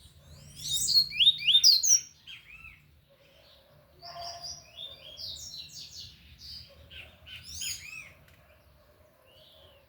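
Double-collared seedeater (coleiro) singing its tui-tui song: a loud phrase of rapid, sweeping whistled notes, then after a short pause a second, softer phrase of quick notes.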